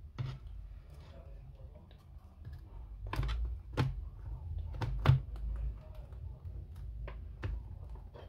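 Sharp clicks and knocks from handling an Apple Time Capsule's casing and parts during disassembly, about seven in all, the loudest around the middle, over a low steady hum.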